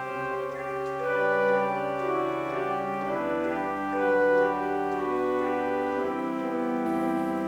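Pipe organ playing a slow prelude of sustained chords that change about every second or two.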